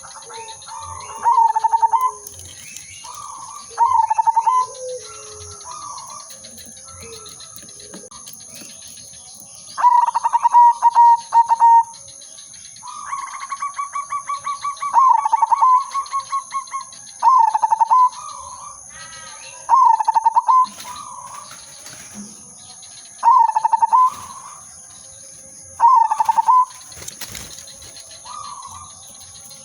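Zebra dove (perkutut) cooing: short rolling coo phrases repeated every two to three seconds, with a longer phrase of rapid stuttering notes between about 10 and 17 seconds in. A faint steady high-pitched whine runs underneath.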